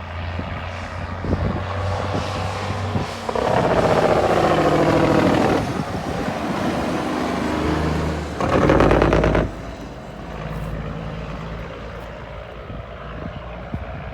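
1974 Kenworth W900's diesel engine running through straight-piped stacks with no mufflers as the truck is driven hard. It gets much louder about three seconds in for a couple of seconds, eases back, surges again briefly around eight and a half seconds, then settles to a lower steady running sound.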